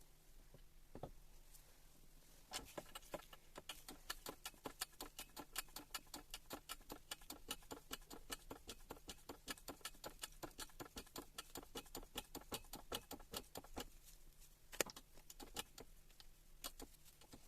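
Light clicking at an even pace of about four clicks a second, going on for around ten seconds, then a few louder single clicks near the end.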